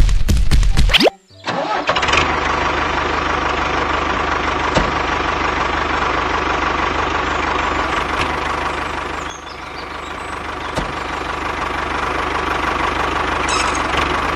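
Small motor of a home-built mini tractor running steadily after a short loud burst at the start; it drops in level around nine seconds in, then slowly grows louder.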